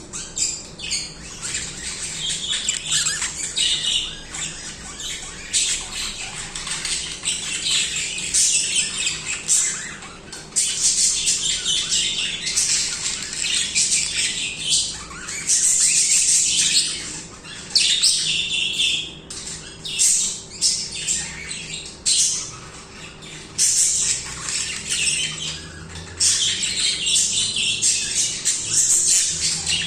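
Several budgerigars chattering and warbling without a break, a dense mix of rapid chirps, trills and louder harsh squawks.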